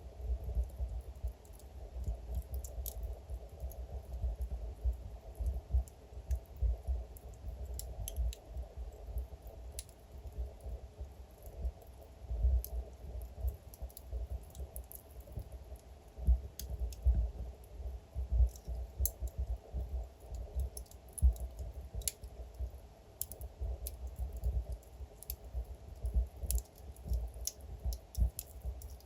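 Wood fire crackling in a fireplace: irregular sharp pops and snaps, several a second at times, over a steady low rumble of the burning logs.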